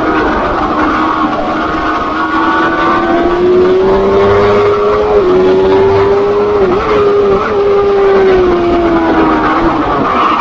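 Pit bike's single-cylinder four-stroke engine running hard at high revs, its pitch drifting slowly up and down with two brief throttle dips about five and seven seconds in. Other racing pit bike engines run at the same time.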